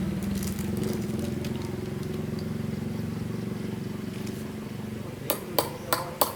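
Small motorbike engine running steadily at idle. Several sharp metallic clinks come near the end.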